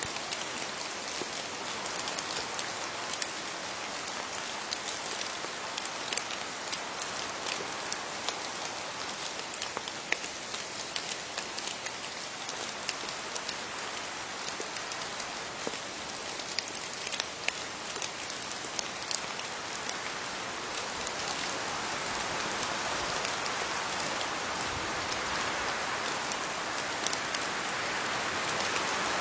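Steady rain falling on leaves: a dense, even hiss dotted with many individual drops ticking sharply. It grows a little louder over the last several seconds.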